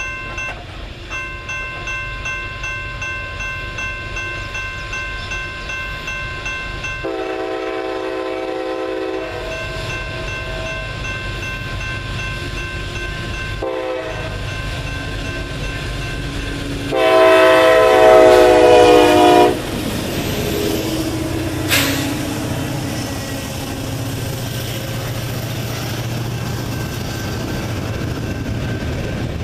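Union Pacific SD70ACe-T4 diesel locomotive leading a double-stack intermodal train: its bell rings steadily at about two strokes a second, then the air horn sounds a long blast, a brief toot and a louder long blast as the locomotive passes. After a single sharp crack, the diesel engines and the container cars' wheels rumble and clatter steadily by.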